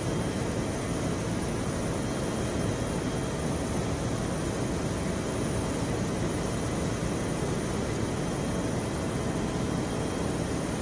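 Aircraft in flight: a steady, unbroken noise of engine and rushing air.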